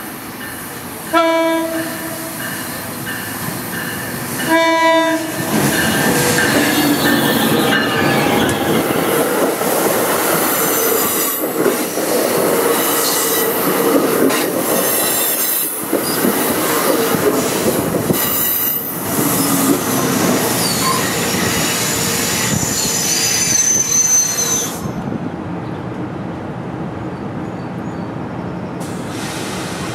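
Commuter train locomotive horn giving two short blasts, about a second in and again about four and a half seconds in, each a chord of several tones. The train then passes with wheels clattering over the rail joints and high flange squeal, until the noise drops off sharply about 25 seconds in.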